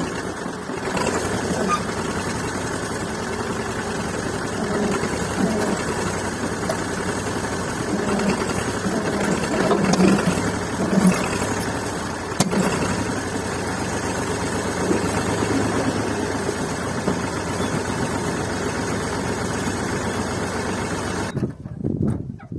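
Tractor engine running steadily, swelling louder briefly about ten seconds in, then cutting off abruptly near the end.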